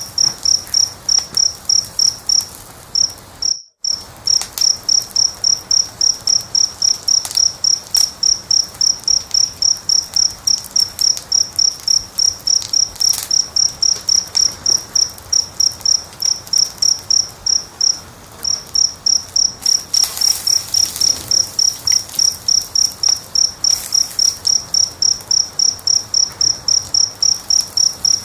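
A cricket chirping steadily, about four even chirps a second, with faint crackling of a wood fire underneath. The sound cuts out completely for a moment just under four seconds in.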